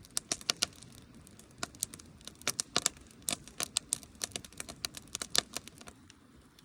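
Campfire crackling: irregular sharp pops and snaps over a faint low rumble, thinning out near the end.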